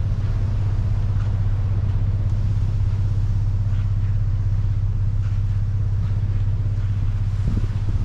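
Steady low rumble of a truck driving, even and unchanging.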